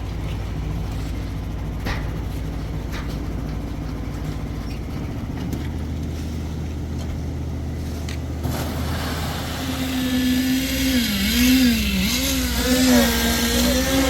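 An engine running steadily, its note shifting about five seconds in. From about ten seconds a louder, wavering tone slides up and down over it.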